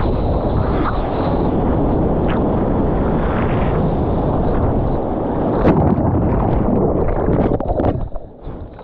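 Strong wind buffeting the camera microphone over rushing surf water, a loud, steady rumble that drops away sharply about eight seconds in.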